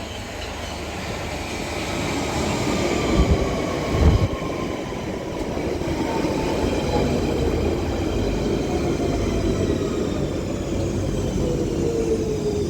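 London Underground 1992 stock Central Line train pulling into the platform and slowing, its motor whine falling steadily in pitch as it brakes and growing louder as it nears. Two short low thumps come about three and four seconds in.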